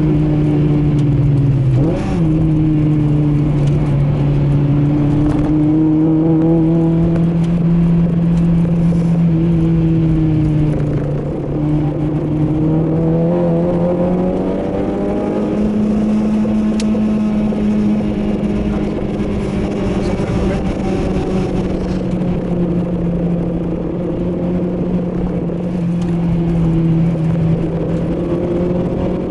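2008 Honda Civic Type R's 2.0-litre four-cylinder engine, breathing through an aftermarket cold-air intake and exhaust, pulling hard on track, heard from inside the cabin. The revs hold fairly steady, dip about ten seconds in, then climb again and stay high.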